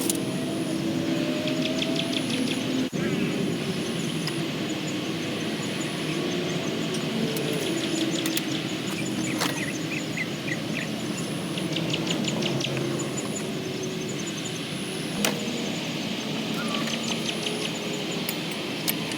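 Outdoor ambience: birds chirping in short repeated trills and an insect's high on-off buzz over a steady low hum, like a distant motor.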